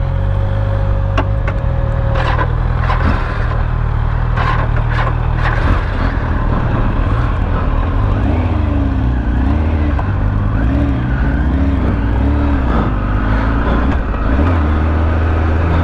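Motor vehicle engines idling steadily, a deep hum in street traffic.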